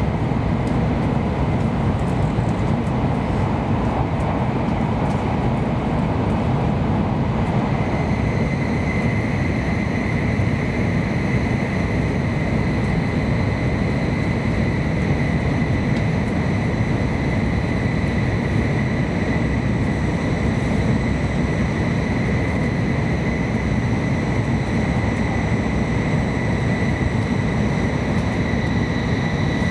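Steady rumble of a 700-series Sakura shinkansen running at speed, heard from inside the passenger cabin, with the pane black as in a tunnel. A thin, steady high whine joins the rumble about eight seconds in and holds.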